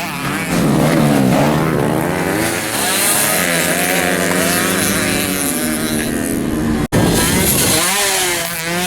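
Several stock underbone motorcycles racing on a dirt track, their small engines revving up and down and overlapping. The sound cuts out for an instant about seven seconds in.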